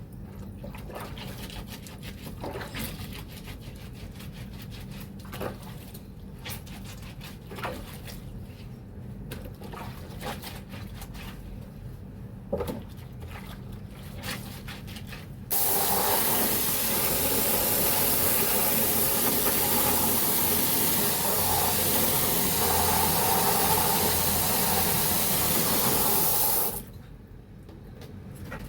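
Small, scattered splashes and drips of wet laundry being handled. About halfway in, water suddenly starts pouring steadily into a container, runs for about eleven seconds, then cuts off abruptly.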